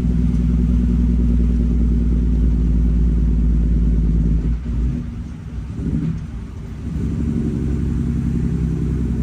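600-horsepower Cummins diesel of an International 9900 semi truck pulling down the highway, heard inside the cab. The engine note drops and changes about five seconds in, then settles back to a steady pull about two seconds later.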